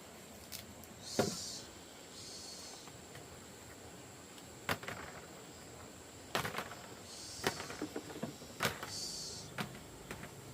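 A few sharp, irregular knocks and clicks, with short rustling or scraping sounds between them, as of something being handled.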